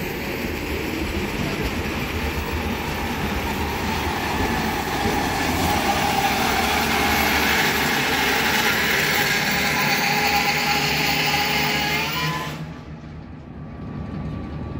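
Container freight train rolling through a rail yard: a steady rumble and wheel noise, with a faint thin whine over it in the middle. The sound drops off sharply about twelve seconds in.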